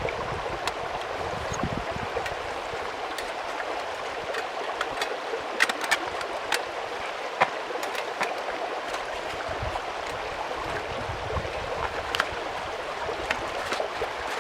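Steady rushing of a flowing stream, with scattered small sharp clicks over it.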